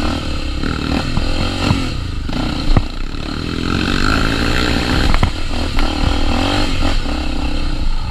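Honda Tornado 250 single-cylinder four-stroke trail motorcycle engine running at varying throttle, with rattles and a few sharp knocks from the bike.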